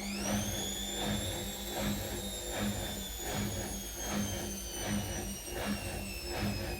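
Atlant washing machine's motor whining, rising sharply in pitch at the start as it speeds up, then holding a high whine that drifts slowly down, over a low hum that pulses in a regular rhythm.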